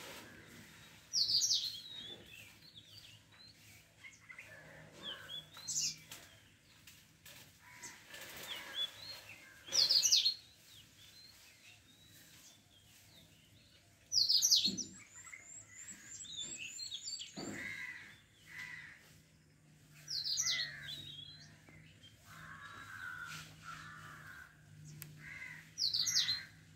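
Wild birds calling: a sharp, high call sweeping downward, repeated about every four to six seconds, with a quick trill near the middle, over a faint low steady hum.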